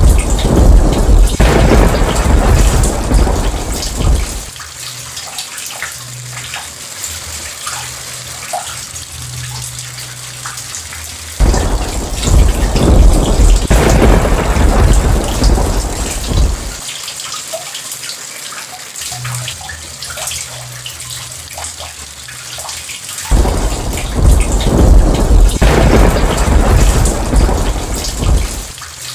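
Steady heavy rain with three long rolls of thunder, each rumbling for about five seconds: one at the start, one about 11 seconds in and one about 23 seconds in.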